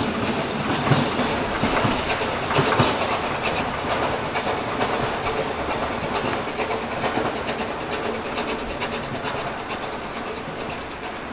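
Narrow-gauge steam train running out of sight, its wheels clicking over the rail joints, fading steadily as it draws away.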